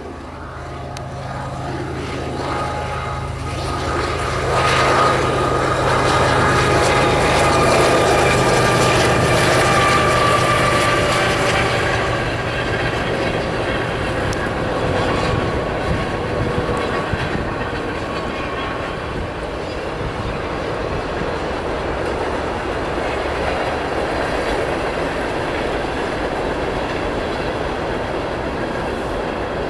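Freight train passing: the steady low hum of the diesel locomotives swells over the first few seconds, with some high ringing tones. About halfway through it gives way to the even rumble and clatter of freight cars rolling by.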